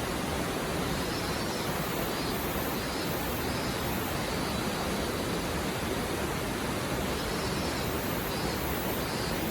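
Mountain river stream flowing and babbling over rocks: a steady, even rush of water.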